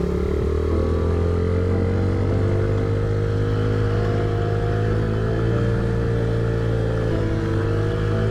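Honda CRF50 small single-cylinder four-stroke dirt bike engine running on the track. Its pitch climbs gently over the first couple of seconds, holds, then dips briefly near the end.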